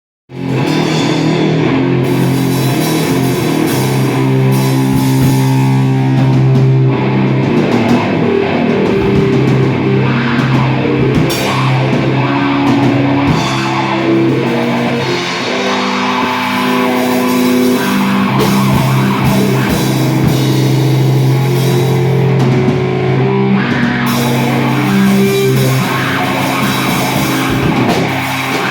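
Rock band playing live: electric guitar, bass and drum kit together in a loud, dense wash of sound that cuts in right at the start.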